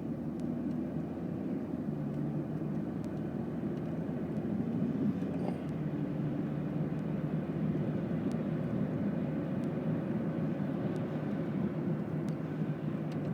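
Steady road and engine noise inside a moving car driving in the rain, with a few faint, scattered clicks.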